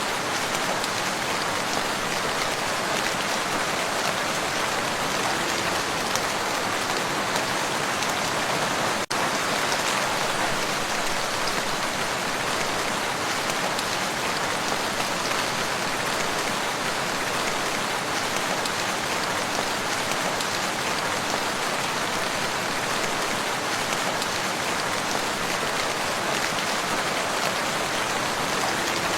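Steady rain falling on a lake and its shore, an even hiss of many drops, with a momentary dip in level about nine seconds in.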